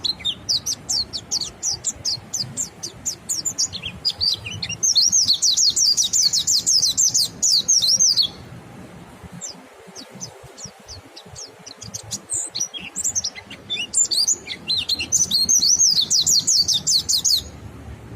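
White-eye (pleci) singing a rapid chattering song of high, quick chirps. There are two long, dense, fast runs, one about a quarter of the way in and one near the end, with scattered single chirps between them.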